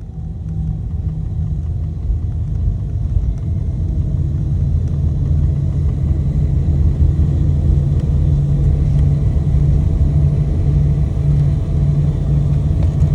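Airbus A320 cabin noise heard from a seat over the wing during landing: a low rumble of the CFM56 engines and airflow that grows steadily louder over the first half, then holds.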